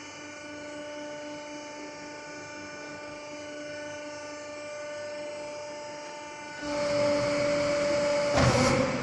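Garbage truck's engine and hydraulic pump running with a steady whine. About two-thirds of the way in the noise gets louder as the compactor equipment works, with a short sharp burst near the end.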